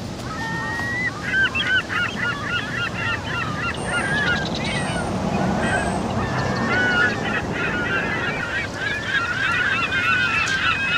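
A large flock of birds calling: many short overlapping calls making a dense, continuous chorus, thinning briefly midway and thickening again toward the end.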